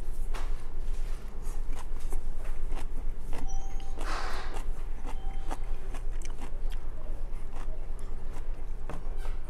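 A person chewing a mouthful of stir-fried cabbage and rice close to a clip-on microphone: small crunches and clicks over a steady low hum, with a short rustle about four seconds in.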